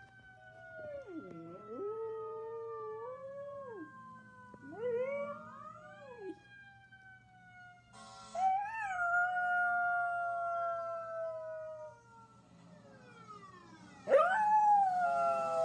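A young mixed-breed dog howling along to a fire truck siren whose wail slowly falls in pitch. There are four long howls that bend up and down in pitch, with the last and loudest starting near the end. There is a brief hiss-like burst about eight seconds in.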